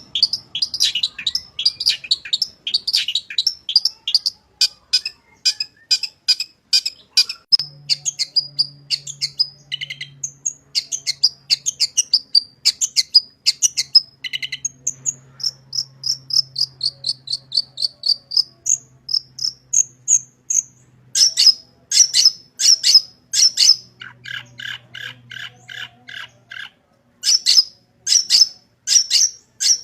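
Long-tailed shrike (cendet) singing a fast, varied song of rapid chirps, with whistled sliding notes in the middle and harsher buzzy phrases near the end, which are part of the mimicked song repertoire (isian) that this species is kept for.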